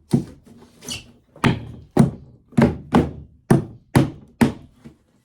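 Hammer blows on wood, about nine strikes at roughly two a second, as a piece is pounded into place.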